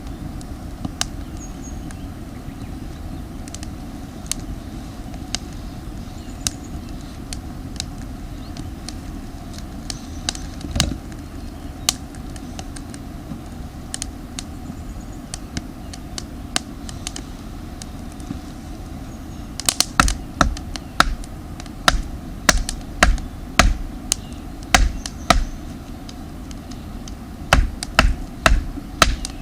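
Damp firewood crackling in a campfire: scattered sharp pops and cracks that grow thicker and louder over the last third, over a steady low rumble.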